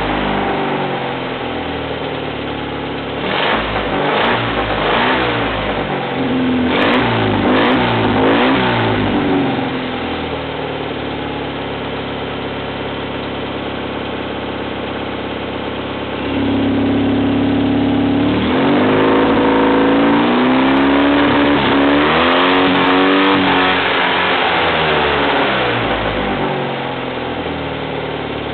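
Car engine idling and revved repeatedly through its exhaust silencer. It rises and falls in a run of blips, settles to a steady idle, is held at raised revs for a moment, then is revved again in blips before dropping back to idle near the end.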